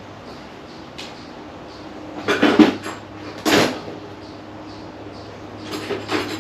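Metal hand tools being handled: a light click about a second in, then short spells of clattering and rattling about two and a half, three and a half and six seconds in, over a steady low hum.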